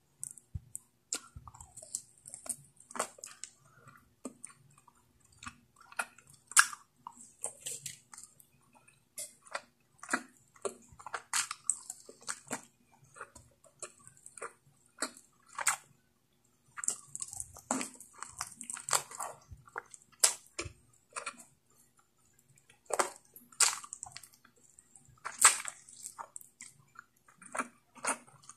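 Close-miked eating sounds: wet chewing and lip smacking on saucy pork curry and rice, a dense run of short sharp clicks and smacks with a couple of brief pauses.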